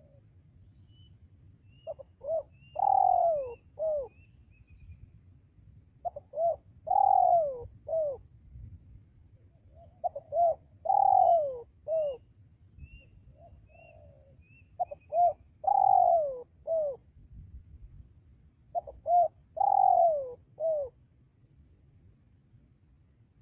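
Spotted dove (tekukur) cooing its decoy call: five phrases about four seconds apart, each a few short coos around one longer falling note. Faint chirps of a small bird are also heard twice.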